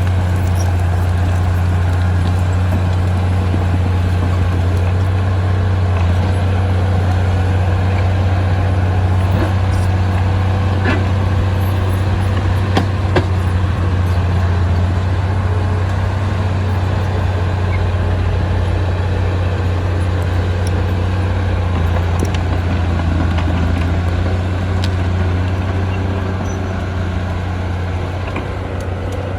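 A heavy construction machine's diesel engine running steadily with a deep, constant hum, with a few faint knocks and clicks. It eases off slightly near the end.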